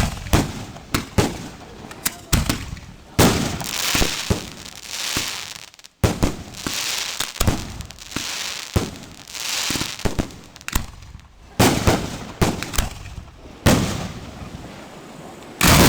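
Aerial fireworks going off in many sharp bangs, with long stretches of hiss between about three and ten seconds in. A dense volley of bangs comes near the end.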